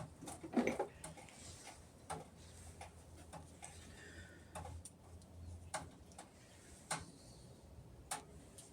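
Scattered light clicks and taps at an irregular pace, from mini bike parts such as bearings and an axle being handled, with a faint low hum in the middle.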